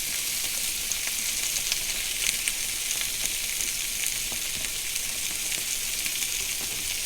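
Polish sausage, onions and green peppers frying in a skillet: a steady sizzle with small crackles and pops scattered throughout.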